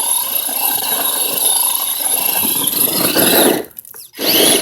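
Electric RC monster truck running hard, its motor whining steadily with a rough running noise. The sound cuts out for about half a second near the end, then comes back.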